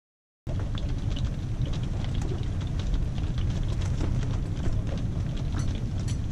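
Wind and rain on a camper trailer's canvas walls and vinyl windows, heard from inside: a steady low rumble with many small taps of drops. It starts suddenly about half a second in.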